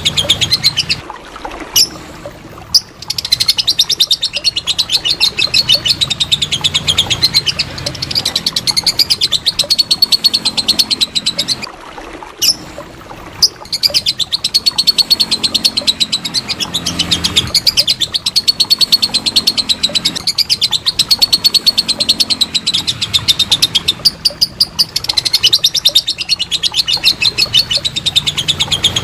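Lovebird chattering in long runs of rapid, shrill, repeated notes (the long "ngekek" song), with two short breaks, about two seconds in and about twelve seconds in.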